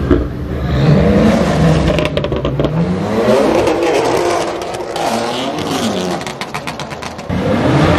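High-performance BMW M car engines revving on a drag strip, the pitch climbing and falling twice. There is a quick run of sharp crackles about two seconds in.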